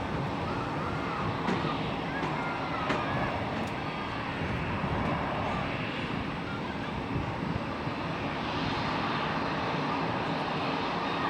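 Steady aircraft engine noise at an airport, a broad even rush with no single event standing out, and a few faint high chirps in the first few seconds.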